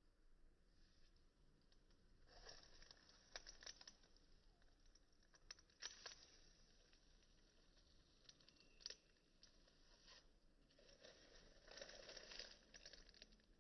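Faint crunching and crinkling, in scattered short bursts with a few sharp clicks, the longest stretch near the end.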